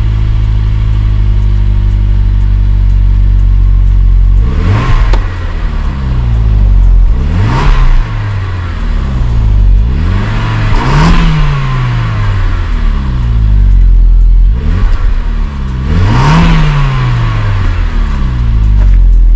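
Saab 9-5 Aero engine idling through an exhaust whose intermediate silencer has been replaced by a straight 63 mm stainless tube, then blipped four times, each rev rising and falling back to idle.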